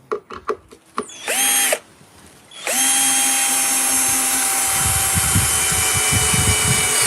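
A few handling clicks, then a power drill gives a short burst and runs steadily at one pitch for about four seconds while drilling into inch-thick treated wood. In the second half of the long run there is irregular low knocking as the bit works through the wood.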